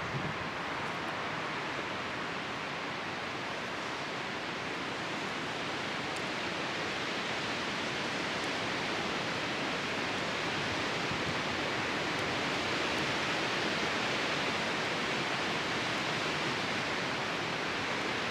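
Steady rushing noise of strong wind blowing around a backyard bonfire, swelling a little toward the end, with a couple of faint ticks from the fire.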